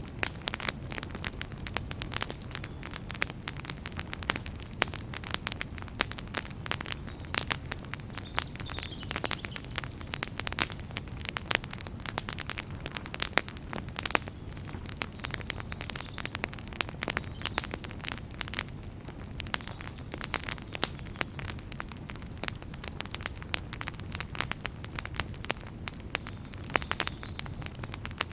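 Wood fire crackling and popping steadily: many quick, irregular snaps over a low rumble of flames.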